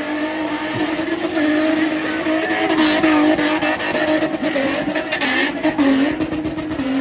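Car engine held at high revs during a spinning run, its pitch wavering up and down as the driver works the throttle.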